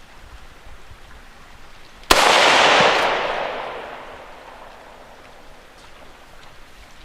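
A single rifle shot about two seconds in, echoing and dying away over about three seconds; the Tannerite target does not go off.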